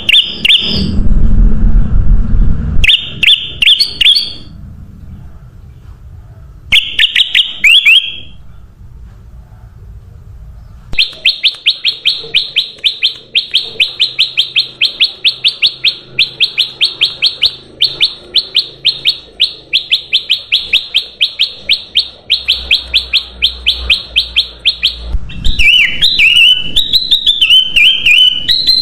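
Kutilang emas bulbul calling: a few short bursts of rapid high chirps in the first eight seconds over a low rumble, then a long, even run of quick repeated chirps, and a varied warbling phrase near the end.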